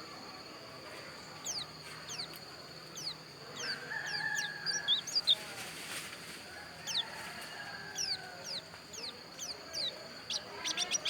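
Pleci dakun white-eye singing: a run of short, thin, high chirps that each sweep downward, ending in a quick flurry of chirps. A rooster crows in the background.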